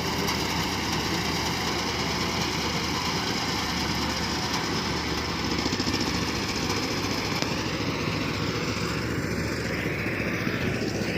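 Tractor engine running steadily with a rapid, even chugging.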